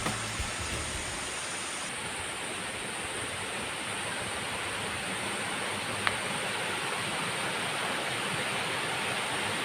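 Steady rush of flowing water, with one short click about six seconds in.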